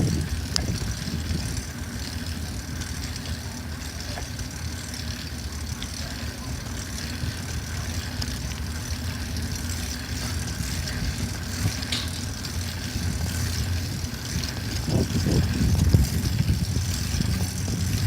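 Steady low rumble of wind on the microphone and road noise from riding a bicycle, swelling briefly near the end.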